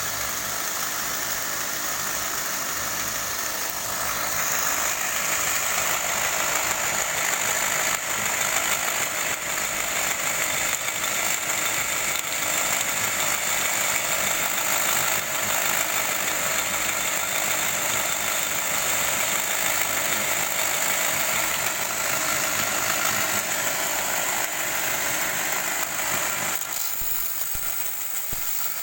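Homemade belt grinder, driven by an electric motor salvaged from a water pump, running steadily with a high whine over a broad hiss; the sound thins near the end.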